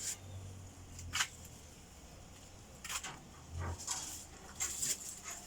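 Grasscutters (cane rats) gnawing and crunching on pieces of coconut palm stem, in irregular sharp crunches with a cluster of them near the end.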